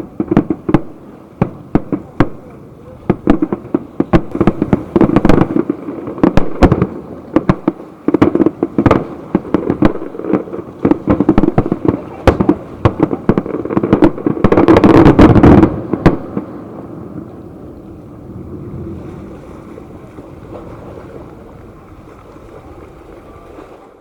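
Aerial fireworks exploding in rapid, overlapping bangs, thickening into a dense, loudest volley about fourteen seconds in that stops about two seconds later. After that a steady background of crowd voices carries on.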